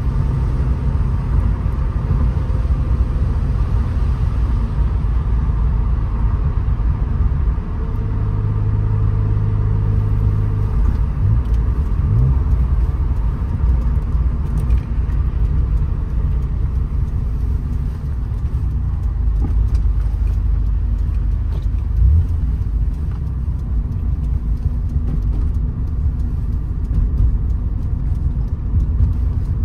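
Alfa Romeo GTV6's V6 engine running at cruising speed, heard from inside the cabin over a steady low road-and-tyre rumble. The engine note holds steady, then rises briefly a few times about a third of the way in. A single thump comes past the middle.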